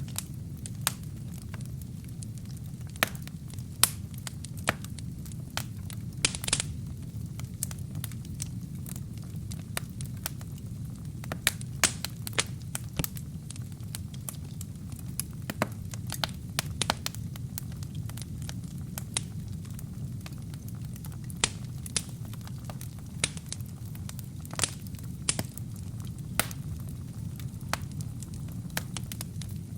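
Wood and kindling fire burning in a fireplace: a steady low rumble of flames with irregular sharp crackles and pops, a few each second, and a brief hiss about six seconds in.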